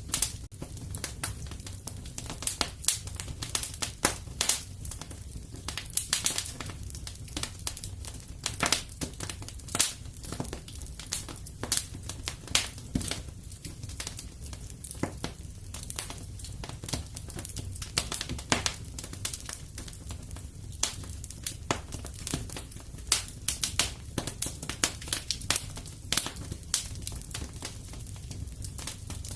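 Wood fire crackling in a fireplace: irregular sharp pops and snaps, often several a second, over a low steady rumble of the flames.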